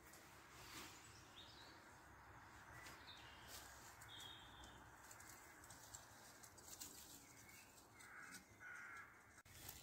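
Near silence, with a few faint, scattered bird chirps.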